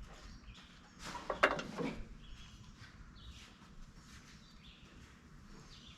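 Birds chirping faintly in the background, with a short clatter of knocks a little after a second in, the loudest sound.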